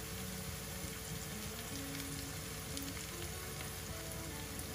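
Egg, potato and tomato mixture frying in a wok, a steady sizzle with faint crackles.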